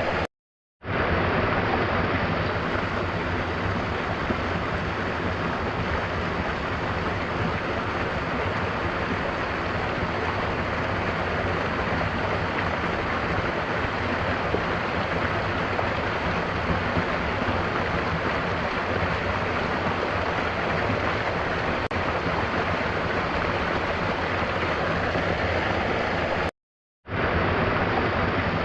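Mountain waterfall rushing in a steady, even roar of falling water. The sound drops out to silence for about half a second twice, just after the start and near the end.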